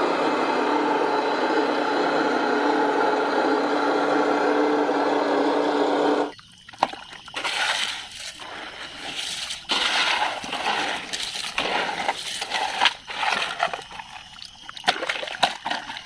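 Water running steadily for about six seconds, then cutting off suddenly. It is followed by irregular splashing, knocks and rustling as toy vehicles are washed by hand.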